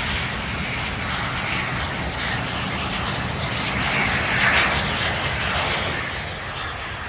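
Jet engines of BAE Hawk T1 trainers running on the ground. A steady, dense rush swells to its loudest about four and a half seconds in and then eases off.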